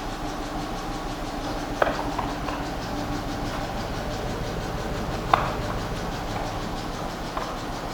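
Dodge Charger patrol car's engine running with a steady low drone and two sharp knocks, about two seconds in and again about three and a half seconds later. The seller lists the engine as having issues.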